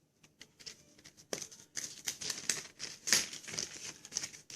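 Packaging of a coloured-pencil set being torn open and crinkled by hand: a dense run of irregular crackles that grows louder about a second in.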